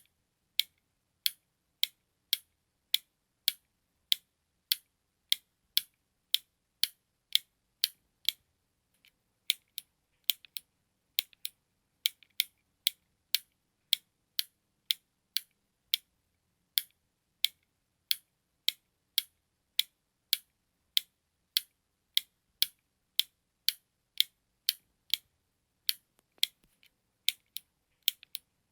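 A small push button clicking over and over, about two sharp, high clicks a second, with a short pause about a third of the way in and a few quick double clicks.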